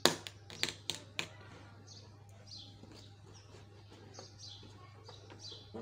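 A bird chirping over and over, short notes falling in pitch about twice a second. In the first second or so come a few sharp clicks, the loudest sounds.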